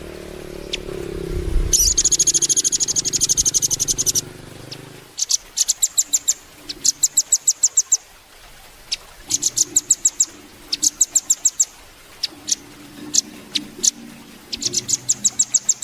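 Nuthatch song: rapid, high, evenly spaced chips run together in trills of about a second, given again and again with single notes between. The first trill, a second or two in, is the longest at about two seconds.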